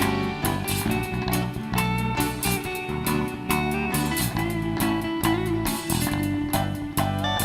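Live band music: guitar over bass and a steady drum beat.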